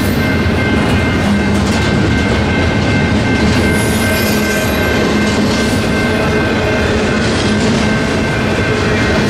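Double-stack intermodal container train's well cars rolling past: a loud, steady rumble of steel wheels on rail, with a thin steady high whine over it.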